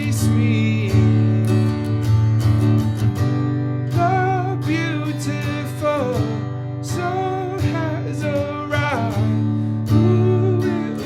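Martin GPCPA4 acoustic guitar played through a looper: a repeating strummed chord loop with a held low note underneath, and single-note improvised lead lines with bends and vibrato over the top.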